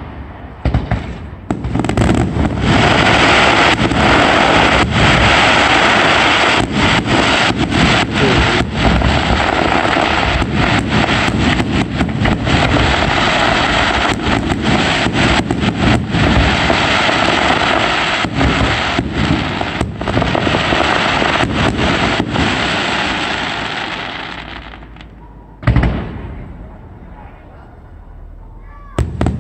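Fireworks display: a dense barrage of rapid bangs and crackling that runs on for over twenty seconds, then fades; a single loud bang follows a couple of seconds later, and another near the end.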